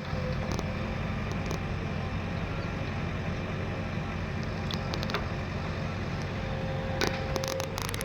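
A heavy machine's diesel engine running steadily with a deep, even rumble, with a few sharp clicks about seven seconds in.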